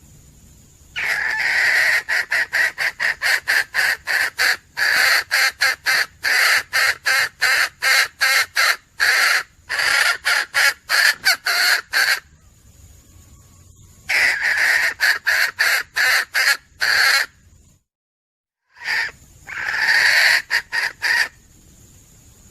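Junglefowl hen calling in fast runs of short, repeated cackling notes, several notes a second, in three bouts separated by short pauses.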